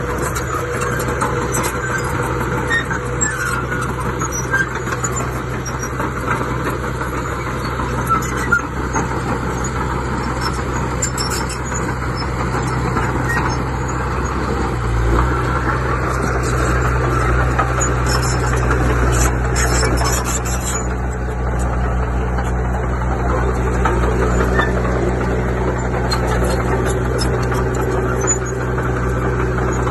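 Heavy diesel engine of earthmoving machinery running steadily. About halfway through, its note steps up and grows louder, as if put under load. Scattered light clicks and squeaks sit over the engine.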